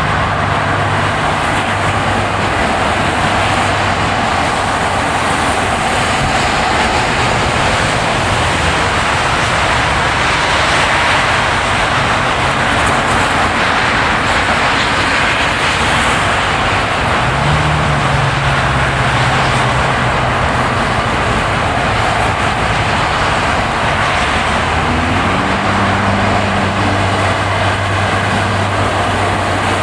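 Car driving on a winter road: steady tyre and road noise, with a low engine hum that comes and goes and shifts pitch a few times.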